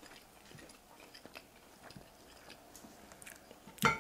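Faint chewing and small mouth clicks, with one sharper clack near the end as a pork chop bone is set down on a glass plate.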